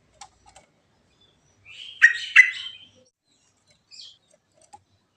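Yellow-vented bulbul (trucukan) singing: a few faint chirps, then one short, loud, bubbly phrase of about a second with two strong notes, then a faint high note.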